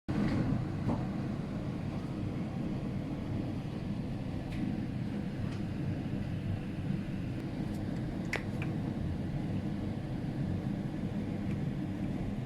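Steady low rumble of sandstorm wind, with a few faint clicks.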